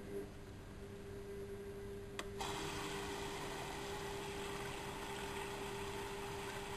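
Bauknecht WA1400 Dolphin washing machine starting its cycle: a steady hum sets in, then about two seconds in a click and a steady rush of water as the machine begins filling.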